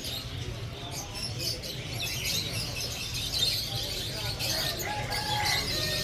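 Many small caged birds chirping and tweeting together: a dense, continuous twittering of short high calls.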